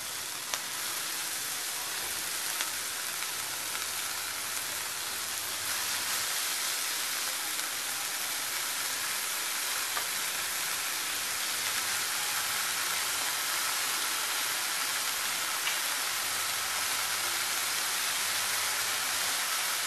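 Chopped fresh fenugreek (methi) leaves sizzling on fried onions in hot oil in a frying pan over a high gas flame. It is a steady hiss that grows a little louder over the seconds.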